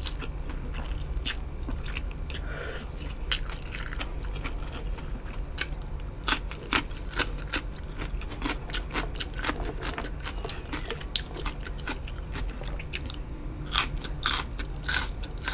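Close-miked eating: a person chewing and crunching food, with many quick, crisp bites and crunches.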